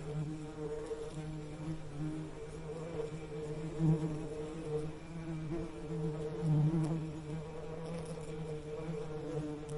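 Bee buzzing: a low, steady hum with a few higher overtones that swells and fades, loudest about four seconds in and again around six and a half seconds.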